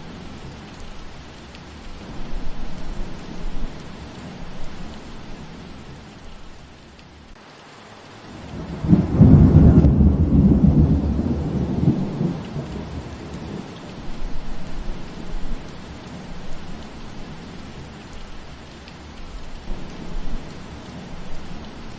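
Steady rain falling, with a loud low rumble of thunder rolling in about nine seconds in and fading away over the next few seconds.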